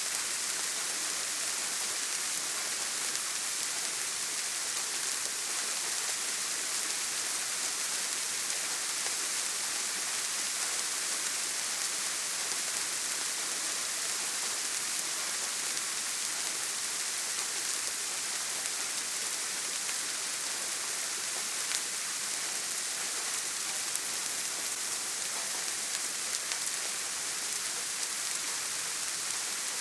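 Steady, even rain falling on a tin roof, a dense hiss of drops with a single sharper tap about two-thirds of the way through.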